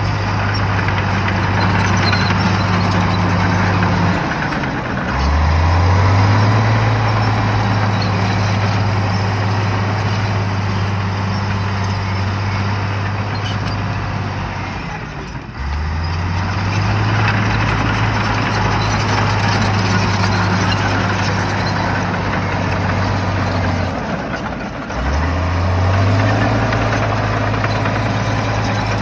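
Shantui bulldozer's diesel engine working under load, its note dipping and then climbing back up sharply three times, about every ten seconds, as the machine cycles through its pushes.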